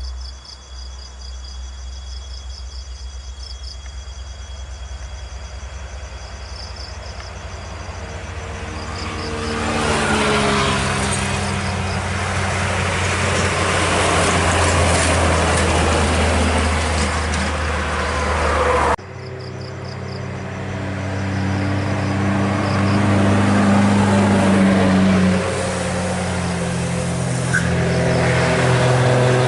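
Heavy road vehicles' engines passing on a hilly road: a steady low engine hum, then an engine grows louder as a vehicle comes close and passes. After an abrupt cut, another engine builds up, its pitch shifting as it pulls.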